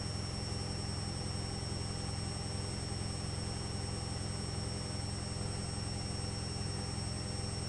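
Electrolux EWS 1045 washing machine running with a steady, even hum and a faint high whine, unchanging throughout.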